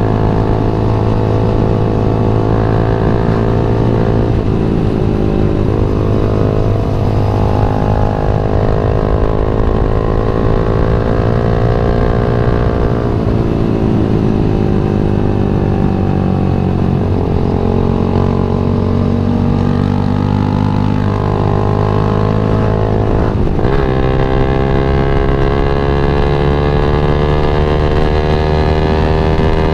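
Yamaha MX King 150's single-cylinder four-stroke engine under way, its revs climbing and falling repeatedly, with sudden drops in pitch about four times before it climbs again.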